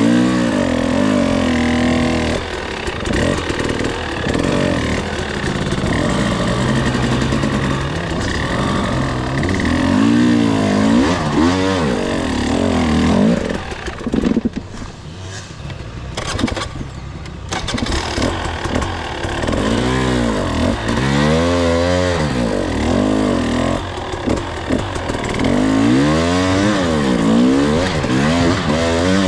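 Two-stroke enduro dirt bike engine under way on the trail, its pitch rising and falling again and again as the throttle opens and closes. About halfway through, the throttle shuts and the engine drops quieter for a couple of seconds, then pulls again.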